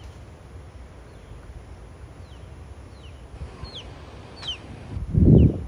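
A bird calling with short, high, falling chirps, repeated several times from about two seconds in, over a steady outdoor background hiss. A brief low rumble about five seconds in is the loudest sound.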